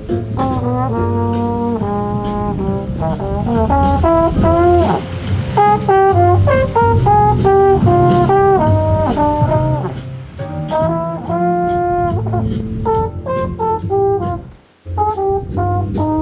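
Jazz trombone solo playing a melody over a backing track with bass and a steady beat, with a brief break near the end.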